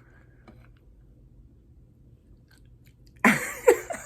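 Quiet chewing and mouth sounds of someone eating wings. About three seconds in comes a loud, short vocal sound that falls in pitch.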